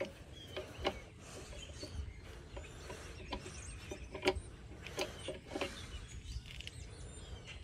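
Quiet outdoor background with scattered bird chirps and occasional short clicks and rustles of the phone being handled.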